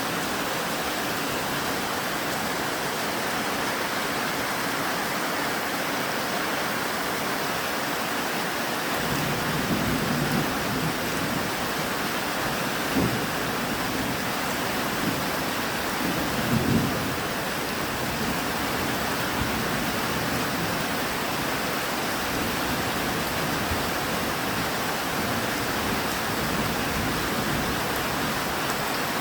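Steady heavy rain hissing throughout, with low thunder rumbling about a third of the way in, a short crack a little later and the loudest rumble just past halfway.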